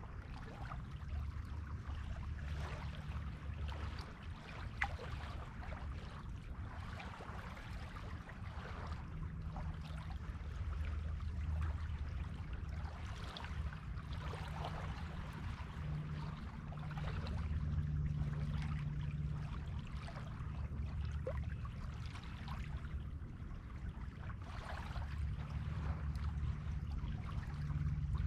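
Sea waves washing onto a beach in slow swells that come and go every few seconds, over a steady low rumble.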